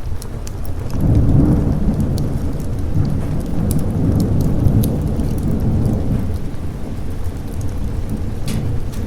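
A thunder rumble swells about a second in and slowly eases off, over steady rain. Scattered sharp ticks run through it.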